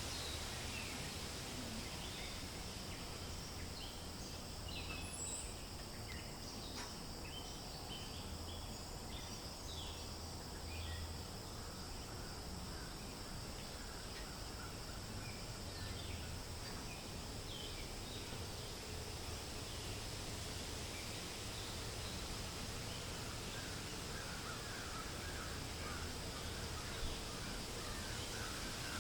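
Steady wind rustling through forest leaves, with scattered short bird calls through the first half and a run of repeated chirps in the last third.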